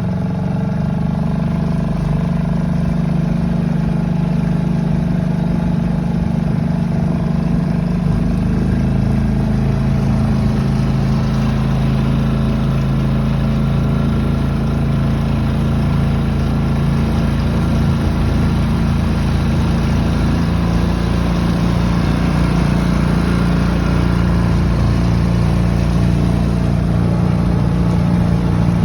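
Outboard motor of a small Sea Nymph boat running steadily under way, its engine note shifting lower about eight seconds in.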